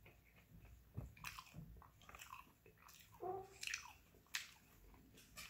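Faint close-up eating sounds: chewing, with scattered small clicks and crackles as seafood is picked from the tray.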